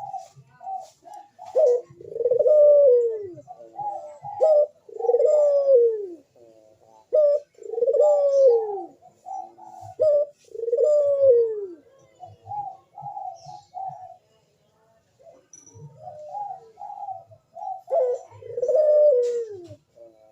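Male puter dove (domesticated ringneck dove) in breeding condition calling over and over: each phrase is a few short clipped notes followed by a long falling coo, repeating about every three seconds, with one pause about two-thirds of the way through. This is the 'manggung' courtship song used as a lure call for other puter doves.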